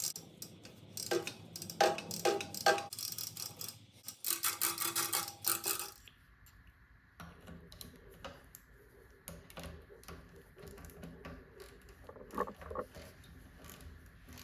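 Metallic clicking and rattling from hands working on a mountain bike's rear derailleur and drivetrain parts: busy, irregular clicks for about the first six seconds, then sparse light ticks.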